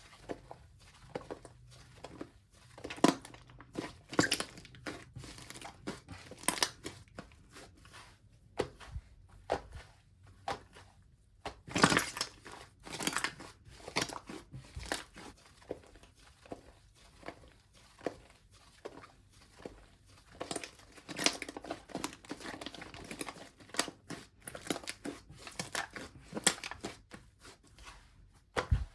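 Slime being squished and stretched by hand, giving irregular sticky crackles and clicks, some clusters louder than others.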